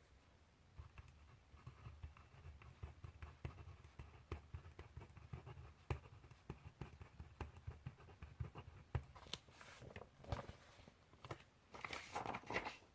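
Handwriting on paper at a desk: a quick, irregular run of pen or pencil strokes tapping and scratching, with a louder paper rustle near the end.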